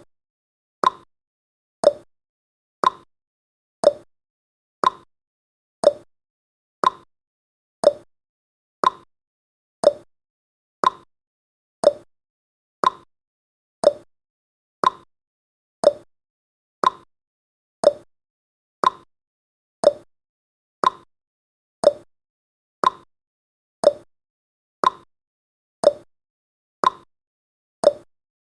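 Countdown timer's tick sound effect: one short blip each second, falling quickly in pitch, with silence between.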